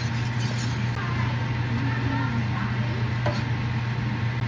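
Kitchen utensil sounds in a pan, with a single sharp clink about three seconds in, over a steady low hum. Faint children's voices in the background.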